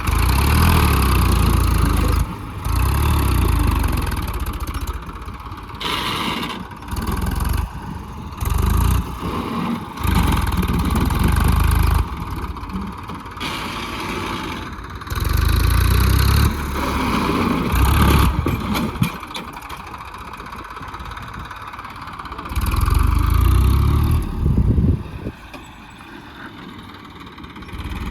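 Massey tractor's diesel engine revved in repeated surges of a second or two, easing off in between, as the tractor strains to pull itself out of the ground where its tyres are dug in.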